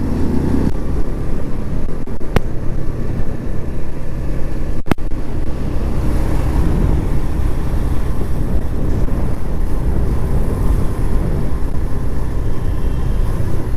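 Wind blast buffeting a Boya M1 Pro lavalier microphone on a moving motorcycle, a steady heavy low rumble with the Suzuki GS150's single-cylinder engine and road noise underneath. Two brief clicks, about two seconds and five seconds in.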